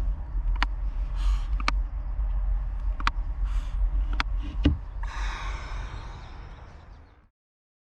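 Brooding female barn owl defending her eggs: repeated breathy hisses with sharp bill clicks between them, the longest hiss about five seconds in. A steady low rumble runs underneath, and the sound cuts off suddenly near the end.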